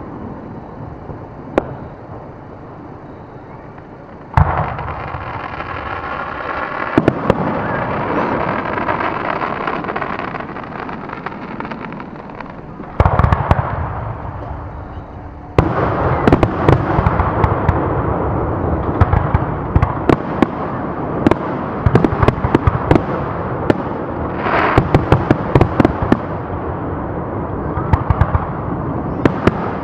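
Fireworks going off: a loud bang about four seconds in and another about thirteen seconds in. From about halfway on, a dense, continuous crackle of rapid pops.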